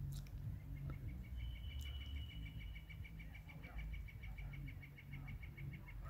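A bird's long, evenly pulsed trill of about seven notes a second, on two high pitches, starting about a second in and stopping just before the end, over a steady low rumble.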